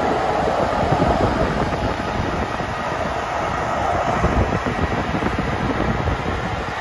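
JŽ series 461 electric locomotive and its train rolling slowly past, a steady rumbling of wheels on rail and the locomotive's running machinery.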